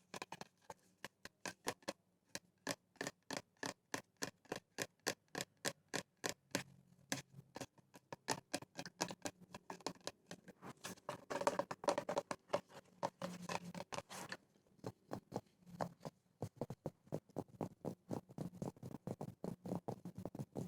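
Fingers tapping quickly on small objects for ASMR: a fast, even run of light clicks, about five a second, with a denser, louder flurry of taps about halfway through.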